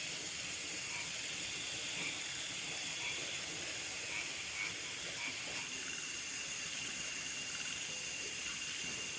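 Chorus of night insects: a steady high-pitched buzz, with a short chirp repeating about once a second over it.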